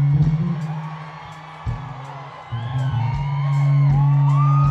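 Electric bass guitar solo: deep notes plucked and held, restruck a few times. In the second half, audience members whoop and scream.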